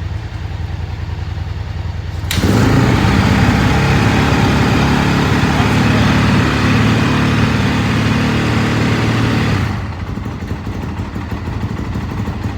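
A 450 single-cylinder ATV or dirt-bike engine, started as the rider tries to get it to kick, comes in suddenly and loud about two seconds in over a steady engine idle, runs for about seven seconds, then falls back to the idle.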